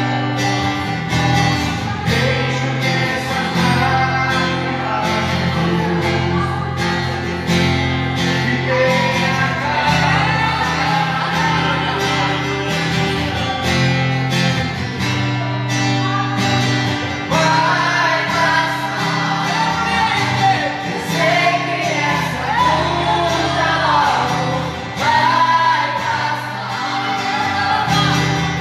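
Worship song: acoustic guitar strumming steady chords with a sung melody over it, the singing coming through more strongly in the second half.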